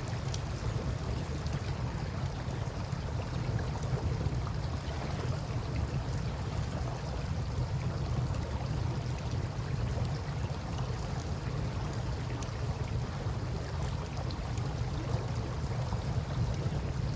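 A wood campfire crackling with scattered small pops over a steady low rush of river water.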